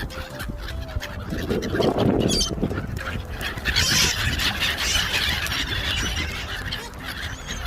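A flock of waterbirds calling over one another, with gull-like squawks and goose-like honks.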